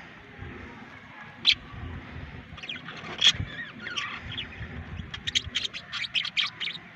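Budgerigars chirping and warbling. There is a sharp chirp about a second and a half in, another near the middle, and a quick run of chirps near the end.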